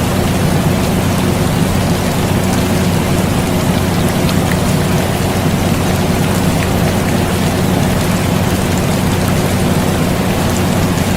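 Steady rain mixed with the even hum of an air conditioner: a constant hiss of rain with a few scattered drop ticks over a low, unchanging drone.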